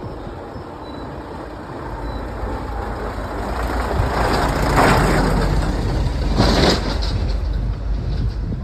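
Vehicle driving along a road: a steady low rumble of engine and tyres, with two louder swells of rushing noise, about five and six and a half seconds in.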